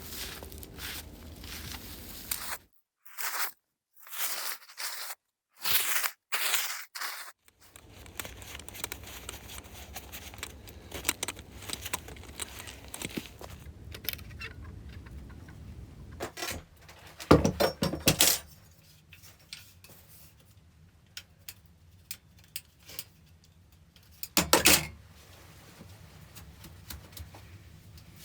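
Intermittent handling sounds: rustling, scraping and small clinks in separate bursts, broken by a few moments of dead silence early on; the loudest bursts come about two-thirds of the way in and again near the end.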